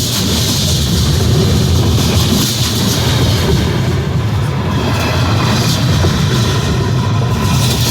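Freight train cars rolling past on the rails: a steady, loud rumble with wheel-on-rail noise.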